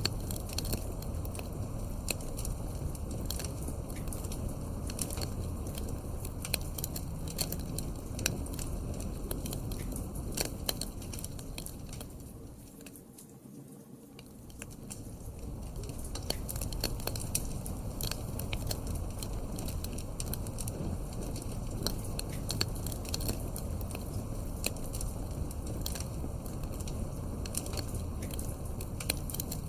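Wood fire crackling in a fireplace: a steady low rumble of burning with frequent sharp pops and snaps. The sound fades down about twelve seconds in and comes back up a few seconds later.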